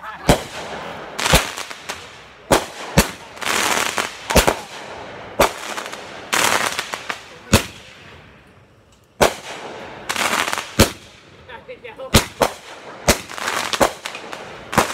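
A large consumer firework going off, one loud bang after another about once a second, with crackling and hissing between the shots and a short lull partway through.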